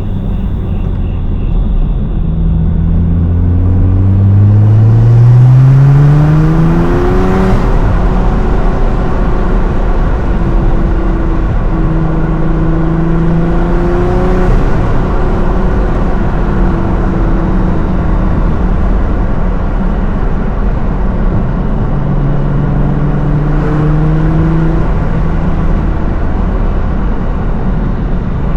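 Tuned 750 hp Nissan GT-R R35's twin-turbo V6 accelerating hard: the engine note climbs for several seconds to a sharp shift about seven seconds in, then rises and eases off twice more, with a steady rumble of road noise underneath.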